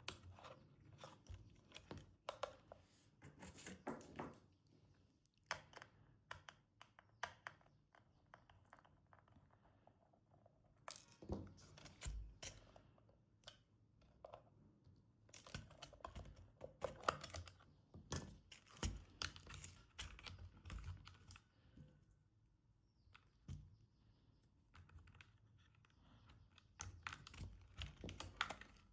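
Scattered light clicks, taps and crinkling rustles of hands handling a toy car and its plastic and cardboard packaging, in no steady rhythm.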